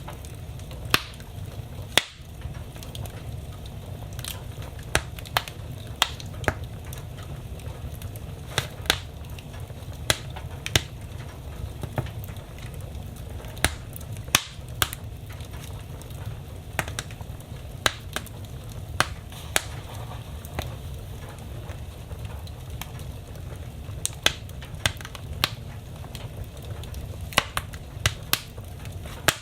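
Wood fire in a fireplace crackling, with irregular sharp pops and snaps every second or so over a steady low rumble.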